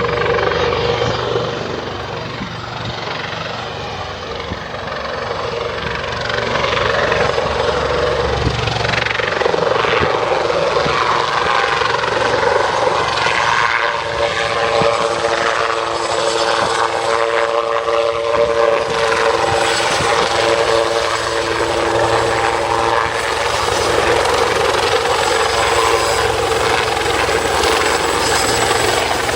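Westland Lynx helicopter running, its twin turboshaft engines whining steadily over the rotor noise. It grows louder about six seconds in, and the pitch of the whine shifts around the middle.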